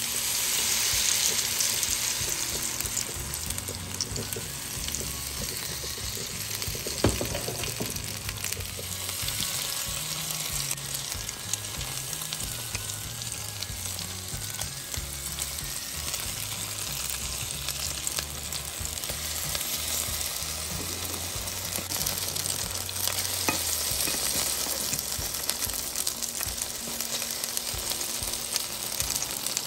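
Grated-potato pancakes (deruny) sizzling steadily as they fry in hot oil in a pan, with a metal fork knocking against the pan as they are turned; one sharp click about seven seconds in.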